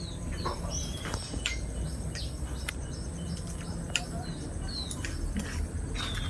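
Outdoor wildlife ambience: birds chirping, with short falling whistled calls and a few sharp clicks, over a steady high insect hum and a low rumble.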